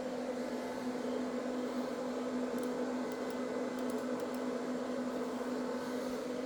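Steady machine hum with a constant low drone, like a fan or small motor running, with a few faint ticks in the middle.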